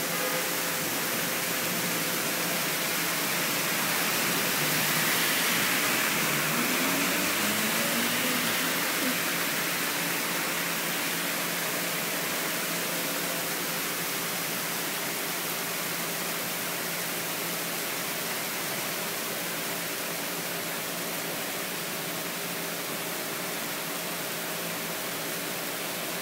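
Heavy rain pouring down in a steady, dense hiss, swelling a little about five seconds in.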